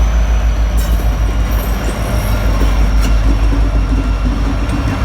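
Freight train rolling by with a steady low rumble.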